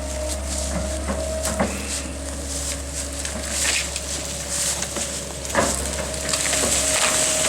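A machine's engine running steadily under a crackling of brush and branches, with sharp snaps now and then, the loudest about five and a half seconds in.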